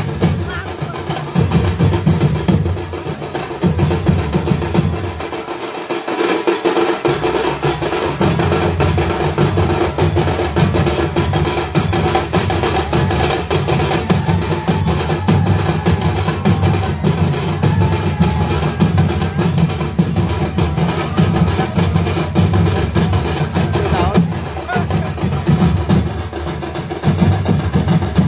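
Music of fast, steady percussion: drums with dense, even strokes throughout, dropping out in the low drums briefly around six seconds in.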